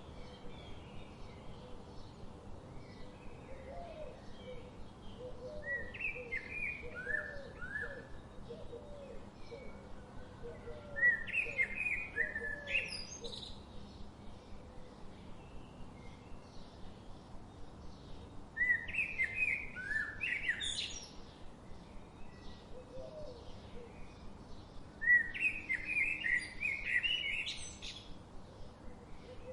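Songbirds singing: one bird repeats a short, bright song phrase that ends in a rising sweep, four times, about every six to seven seconds. Softer, lower chirps run through the first half, over a faint steady outdoor hiss.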